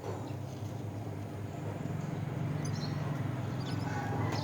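A steady low engine hum that slowly grows louder, with a few faint, brief high bird chirps about two-thirds of the way in.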